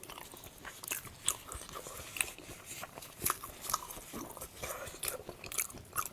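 Close-miked chewing and biting of soft, sticky, chewy food, with irregular wet mouth clicks several times a second.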